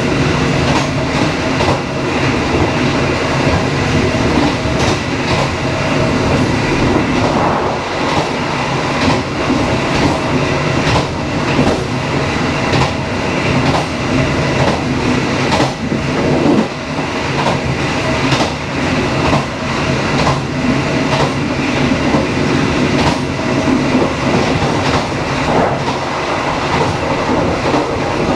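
Passenger train running along the track: a steady rumble with frequent wheel clicks, the clickety-clack of the rail joints.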